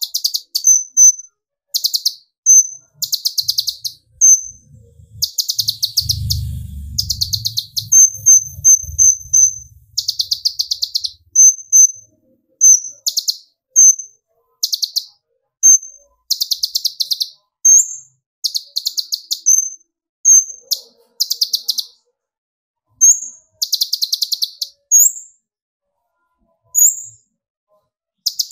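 Kolibri ninja sunbird singing its rapid 'tembakan' song: high, fast trills of repeated chip notes in bursts about a second long, alternating with single sharp high notes. A brief low rumble sounds about six seconds in.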